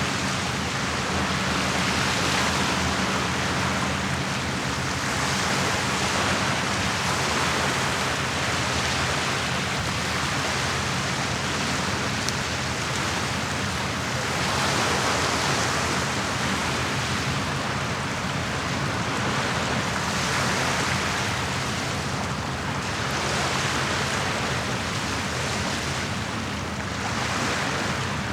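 Small lake waves washing against the shore, swelling and easing every few seconds. A steady low hum runs underneath.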